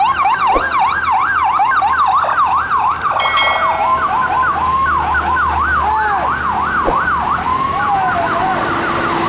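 Electronic vehicle siren sounding in a fast up-and-down yelp, starting abruptly, with a brief steady horn-like tone about three seconds in and slower falling sweeps near the end, over a low engine rumble.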